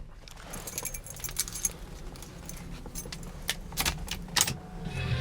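A car key ring jingling and clicking as the ignition key is handled, over a steady low rumble that grows louder near the end.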